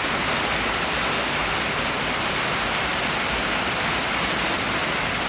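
Substantial rain falling steadily on a tin roof, an even, unbroken hiss.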